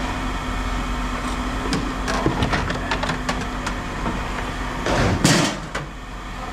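Scrap metal being handled: a run of light clinks and knocks, then a louder rattle or scrape about five seconds in, over a steady low hum.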